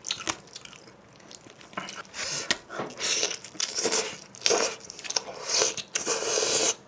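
Close-miked mukbang chewing of a mouthful of cheese pizza: quiet for the first two seconds, then short chewing and biting noises about once a second.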